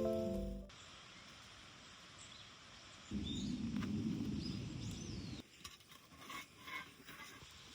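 Quiet outdoor ambience with small birds chirping now and then, as the background music fades out just at the start. In the middle a low rushing noise swells for about two seconds, followed by a few scattered light clicks.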